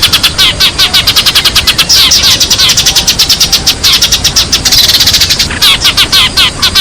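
Sparrows chirping rapidly and without pause, about ten short chirps a second, with a brief denser burst of higher chirping about five seconds in.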